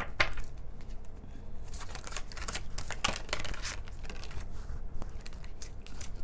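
Tarot cards being shuffled and handled: a run of quick papery slaps and rustles, densest about two to three seconds in, with scattered single clicks around them.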